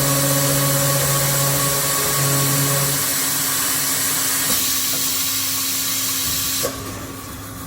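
Bestec BP-200 high-speed circular pipe-cutting saw machine running, a steady motor hum over a broad hiss. The hum fades out about three seconds in, and the sound drops sharply quieter near the end.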